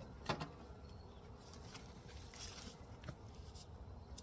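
Honeybees buzzing around the hive, a low steady hum, with several light clicks and taps scattered through it.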